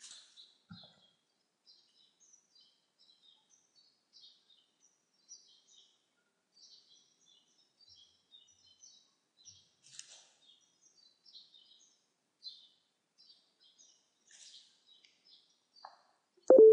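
Faint chirping of small birds in the background: a steady scatter of short, high chirps. A brief, louder sound comes near the end.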